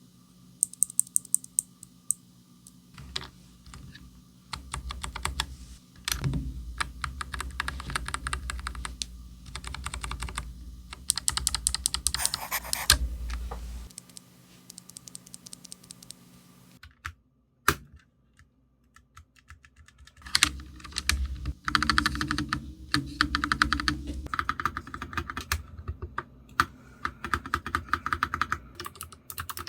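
Typing on a Nuphy Air75 low-profile mechanical keyboard with clicky Gateron blue switches. A quick run of single key presses comes first, then long bursts of fast typing, a lull broken by one sharp click, and more typing.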